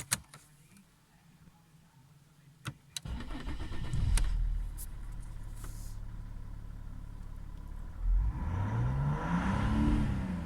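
Mercedes-Benz OM613 3.2 CDI inline-six diesel of a W220 S320 being started. A few clicks come first, then the engine catches about three seconds in and settles to a steady idle. It is revved once near the end, the pitch rising and then falling back.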